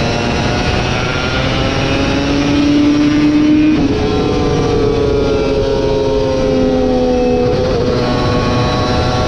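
Superbike racing motorcycle engine running hard at high revs, its pitch drifting and then jumping abruptly about four seconds in and again near the end, over a dense rush of noise.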